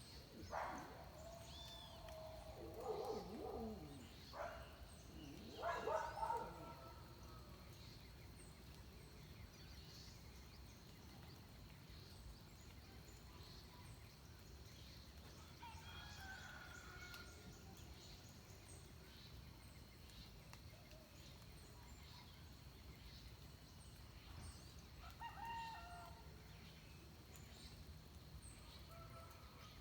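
Roosters crowing at dawn: two loud crows in the first seven seconds, then fainter, more distant crows around the middle and near the end. Small birds chirp faintly throughout.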